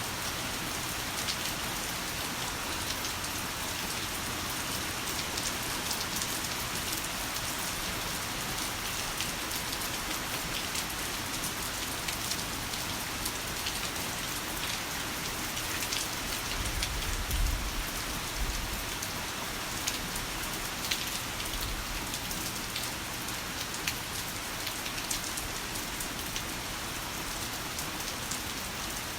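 Heavy rain falling steadily: a dense, even hiss dotted with sharp drop ticks, with a brief low rumble of thunder about halfway through.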